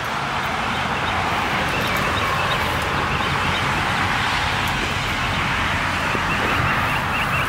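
A motor running steadily with a low hum under a dense rushing noise, swelling during the first second and then holding level. Rapid small chirps, likely a bird, come in near the end.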